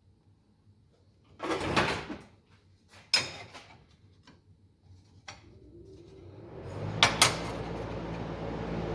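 Tools and metal parts being handled on a workshop bench: a short scraping shuffle, a few sharp clicks and clanks, then a steady low hum sets in near the end, with two sharp clicks as it starts.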